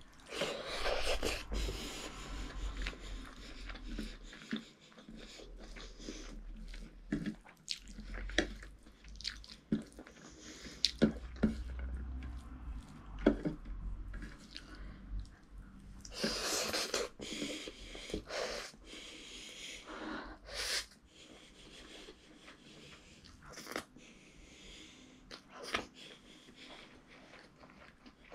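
Close-up chewing of a mouthful of rice and chicken curry eaten by hand, with wet smacks and sharp clicks coming irregularly.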